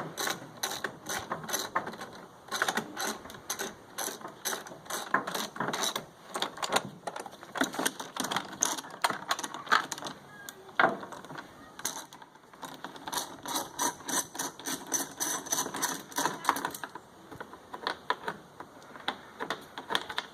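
Rapid mechanical clicking in repeated runs, typical of a hand ratchet backing bolts out of a generator's housing, with a couple of short pauses.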